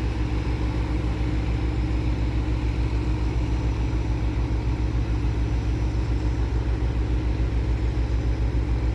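A tugboat's engine running steadily under load as it tows loaded cargo barges, a low, fast, even throb.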